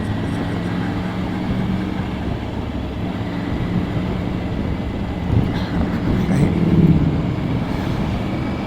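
Motorcycle engine running steadily under way, heard from the rider's own bike with road and wind noise, its note swelling louder about six to seven seconds in.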